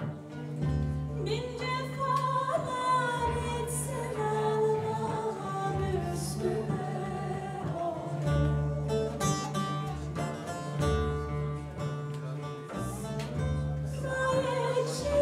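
A woman singing a flowing melody over plucked acoustic guitar and a pulsing bass line; the voice comes in about a second in.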